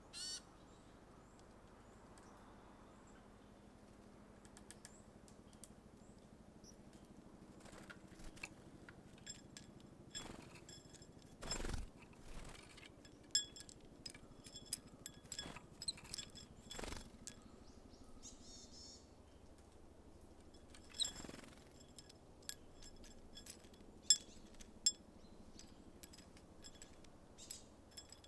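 Small birds at a seed feeder: scattered sharp taps and clicks, a few brief rustles, and occasional short, high chirps, all faint.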